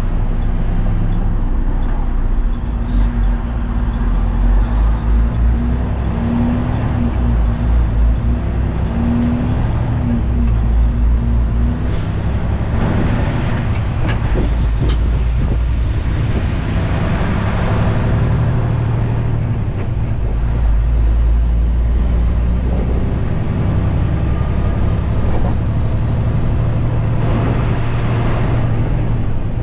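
Detroit DD15 diesel engine of a 2021 Western Star 4900 semi truck running as the truck drives, its note changing in level along the way. The exhaust is stock, with a DPF and DEF system rather than straight pipes.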